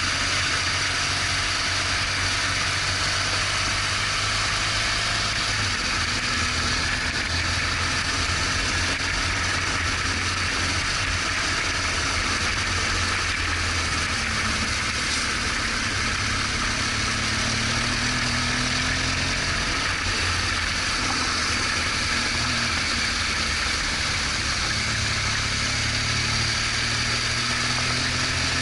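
BMW R1200GS Adventure boxer-twin engine running under way, its pitch drifting gently up and down with the throttle, under a steady rush of wind and road noise.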